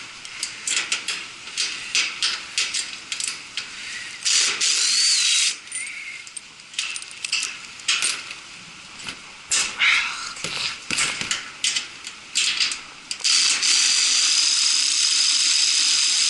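Hand ratchet wrench clicking in rapid runs as bolts are backed off, with short pauses between runs. About three quarters of the way in, a steady whirring hiss starts and runs on.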